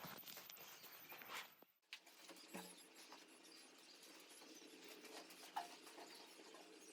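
Near silence: faint scattered ticks and light taps, with a faint steady low hum from about two seconds in.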